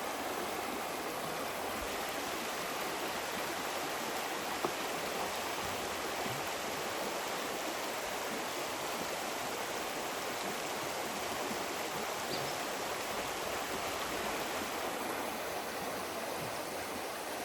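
A stream running steadily, an even rush of flowing water, with one faint click about four and a half seconds in.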